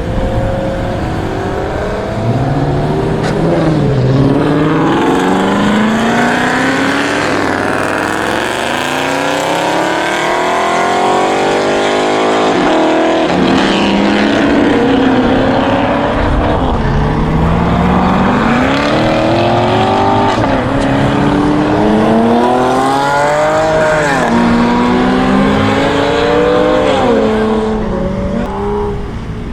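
High-performance car engines accelerating hard away, one after another, the engine note climbing steeply and dropping sharply at each upshift.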